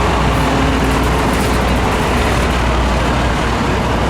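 Steady low rumble of a heavy vehicle engine running, mixed with city street traffic noise; no siren sounds.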